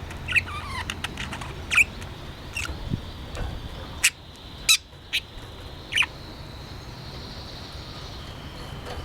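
Budgerigar giving short, sharp chirps, about five of them spread out, the first sliding down in pitch, with a few light clicks between them.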